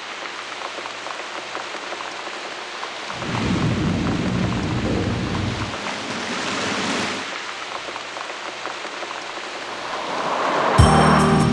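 Steady rain falling, with a long low rumble of thunder from about three to six seconds in. Music starts near the end.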